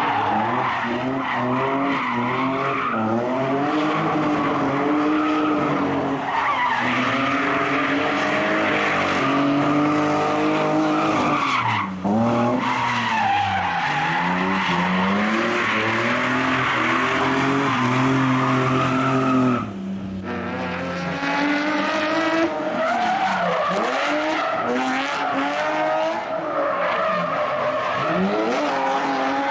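Drift cars running hard: engines revving up and down over and over, with tyres skidding and screeching. The engine note breaks off suddenly twice, about twelve and twenty seconds in.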